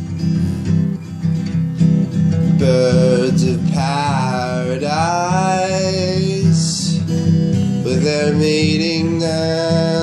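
Acoustic guitar strumming a steady chordal accompaniment as a song's introduction. A held, wavering melody line sounds above it from a few seconds in and again near the end.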